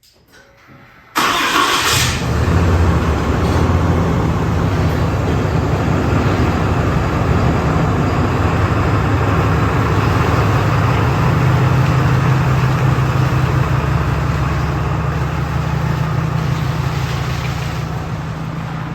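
A 2022 Polaris Sportsman 450 HO ATV's single-cylinder engine is started about a second in, catching at once with a brief rev. It then runs steadily and eases slightly near the end.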